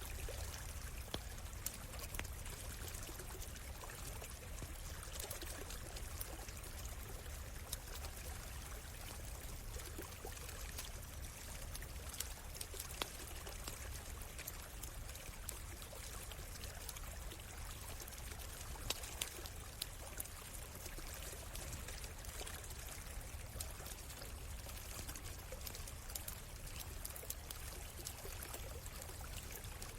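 A forest stream flowing and trickling steadily, with scattered small sharp crackles from a campfire throughout.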